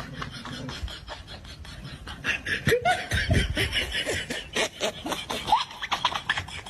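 People laughing in quick short bursts, getting louder about two seconds in.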